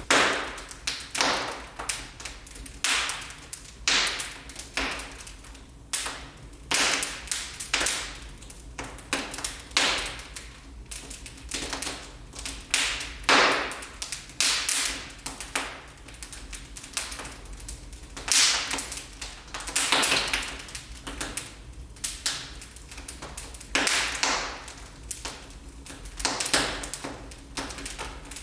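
Fire crackling in a fireplace: irregular sharp pops and snaps, several a second, with some louder cracks over a faint hiss.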